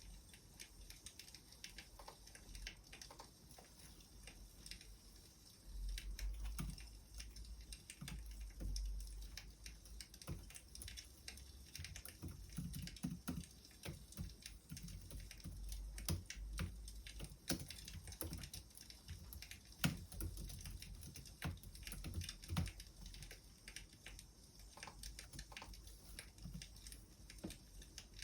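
Wood fire crackling: irregular small pops and snaps, with a soft low rumble swelling at times.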